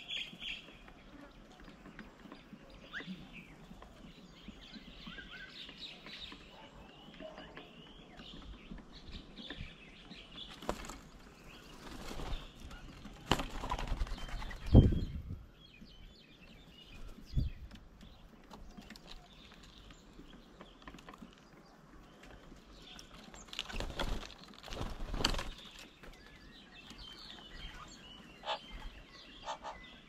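Birds at a feeding table: small chirps scattered throughout, with several short, loud bursts of wing flapping as birds fly on and off the table. The flapping comes around the middle, loudest about halfway through, and again about three-quarters of the way in.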